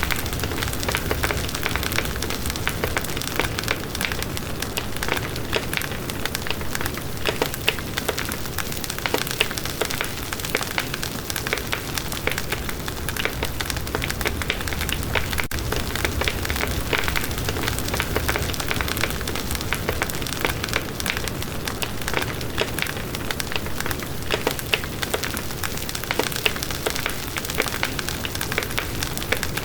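Wood campfire crackling steadily, with frequent sharp pops over a low rumble.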